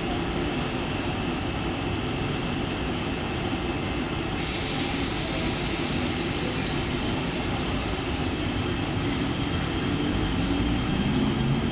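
Mumbai suburban local electric train running on the rails: a steady rumble and hiss with thin high wheel-squeal tones. The high hiss brightens suddenly about four seconds in, and a rising hum begins near the end.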